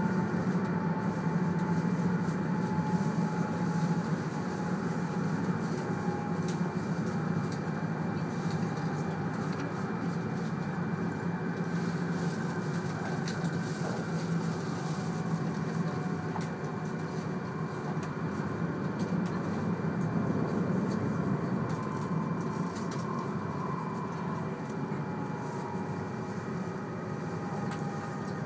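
Cabin noise of a 200 series Shinkansen running at speed: a steady low rumble and rush with a faint steady high tone, easing slightly quieter toward the end.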